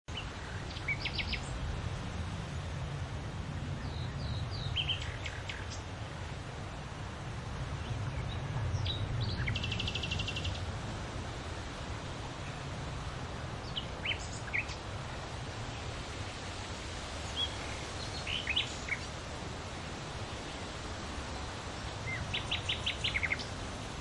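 Small birds chirping: scattered short high chips and two quick rattling trills, one near the middle and one near the end. Under them runs a steady low outdoor rumble.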